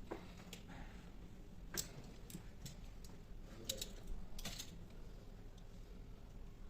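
Scattered light clicks and taps of hand work on a wooden window's glazing, several irregular strikes with short gaps between them.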